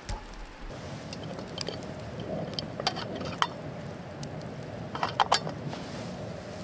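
Light metallic clinks of camp cookware or utensils: a few separate taps, then a quick cluster of three, over a steady low background rush.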